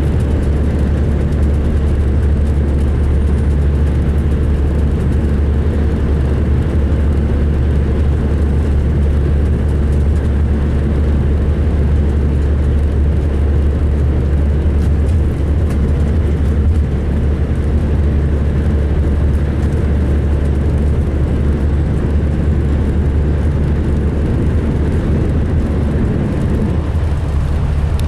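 A 2005 MCI D4500 coach's diesel engine running steadily: a loud, low, even drone that shifts slightly near the end. The uploader finds this coach rough-sounding when running and idling.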